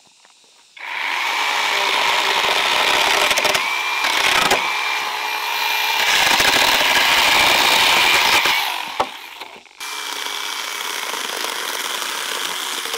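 A power saw running while cutting wood, in two long runs: the first starts about a second in and stops near 9 s, the second starts again about a second later.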